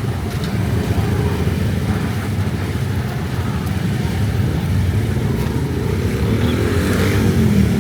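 Street traffic: car and motorcycle engines running, a steady low rumble, with one vehicle coming louder near the end.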